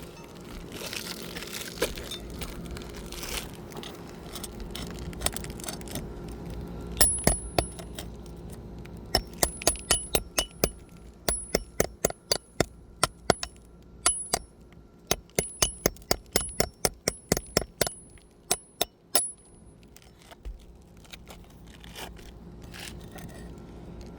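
Scraping and rustling, then from about seven seconds in a long run of sharp metallic taps, some in quick runs and some spaced, many with a brief high ring: a metal tool being worked under an asphalt shingle to loosen its roofing nails.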